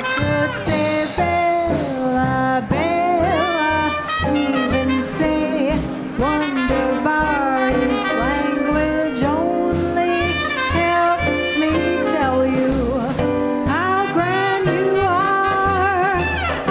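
Small-group swing band playing live: saxophone and trumpet lines over piano, string bass and drums, with an even pulse at the bottom.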